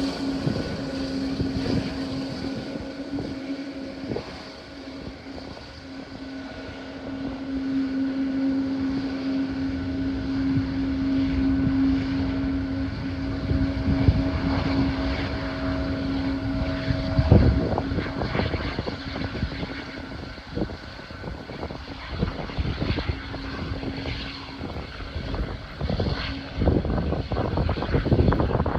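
Boeing 777-200's jet engines running with a steady whine, heard from a distance. Gusts of strong wind buffet the microphone with irregular rumbling bursts, hardest about two-thirds of the way through and near the end.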